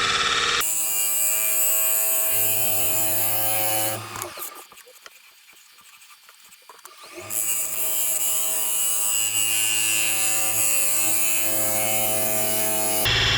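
Wood lathe running with a steady motor hum while the poplar shade is turned. The hum cuts out for about three seconds in the middle, where only a few light clicks are heard, then starts up again.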